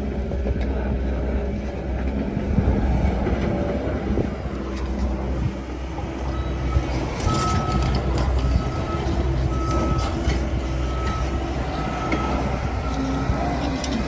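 Excavator's diesel engine running steadily under work, with scattered knocks and clanks. From about halfway through, a back-up alarm beeps about once a second.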